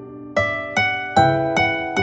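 Soft background music: a slow plucked-string melody, one note about every 0.4 seconds, each ringing and fading.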